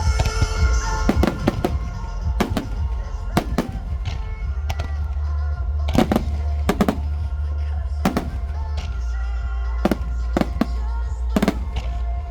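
Fireworks bursting in the air, about fifteen sharp bangs at irregular intervals, over music with sustained tones and a steady low bass.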